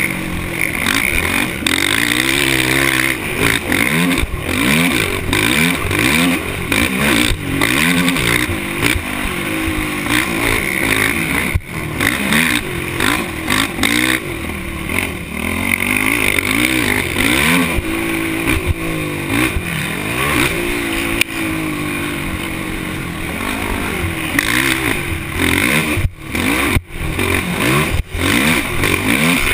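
Motocross bike engine revving hard and easing off over and over as it races around the track, its pitch rising and falling with throttle and gear changes. A few brief drops in the engine sound come near the end.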